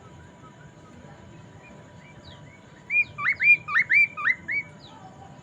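Poksay mandarin, a caged laughingthrush, singing: faint scattered chirps, then about three seconds in a quick run of about six loud hooked whistled notes. A faint steady thin tone runs behind it.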